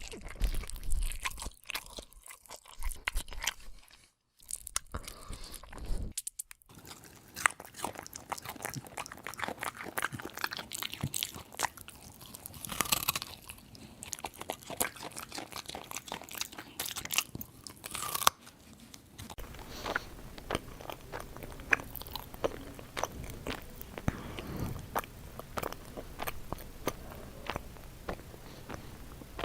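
Dubbed eating sound effect: rapid, crisp crunching and chewing, with two brief breaks about 4 and 6 seconds in.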